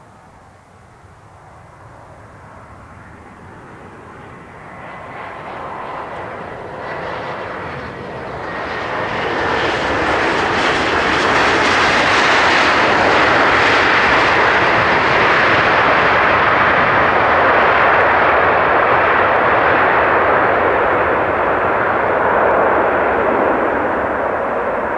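Airbus A320-200 jet airliner's engines, a rush that grows louder over the first ten seconds or so as it comes in to land, with a faint whine that slides slightly down in pitch as it passes, then stays loud.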